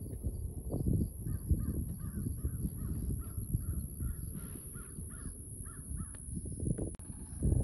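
A bird calling a quick series of a dozen or so short notes, about three a second, over low wind rumble on the microphone and a steady high-pitched hiss.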